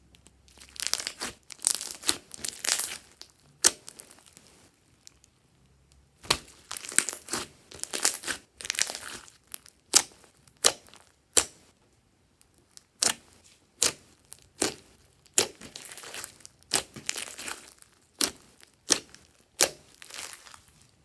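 Glossy slime being squeezed, stretched and pressed by hand: wet crackling and sharp popping clicks from trapped air bubbles, coming in irregular bursts with short pauses between them.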